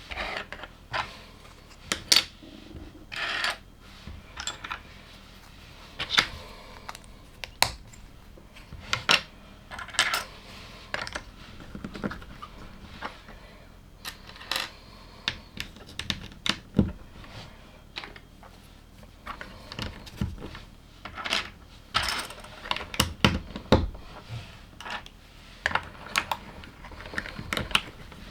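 LEGO pieces being handled and pressed together: irregular sharp plastic clicks and clatter, with short rustles in between.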